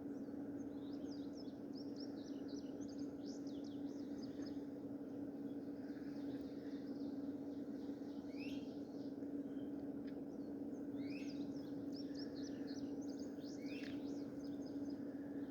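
Songbirds chirping in quick runs of short notes, in several bursts with a few falling notes among them, over a steady low hum.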